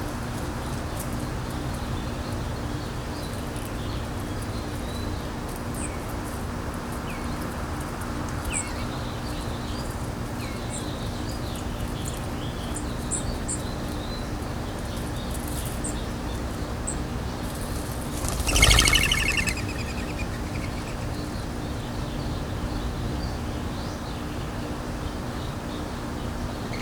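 Small birds chirping on and off over wind rumbling on the microphone and a faint steady low hum, with one louder, harsh burst about a second long roughly two-thirds of the way through.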